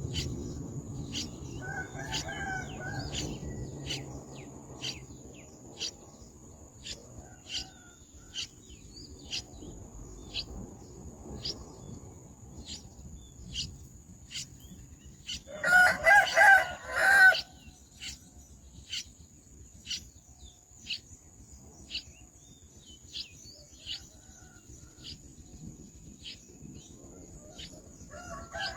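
Young birds giving short high peeps, repeated a little more than once a second, while a rooster crows once, loudly, just past the middle; a weaker crow or call comes about two seconds in. A faint steady high whine runs underneath.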